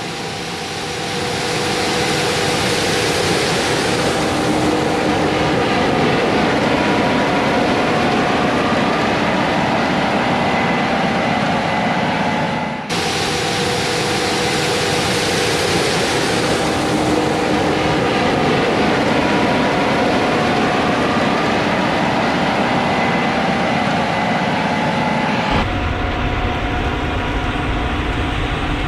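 Harvest machinery running steadily: a dense mechanical drone with a few faint steady whines. The sound changes abruptly about 13 s and 26 s in, and the last part carries a much heavier low rumble.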